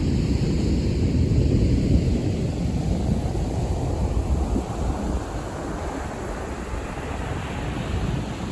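Sea waves breaking on the shore, with wind rumbling on the microphone; a hissing wash of surf builds through the second half.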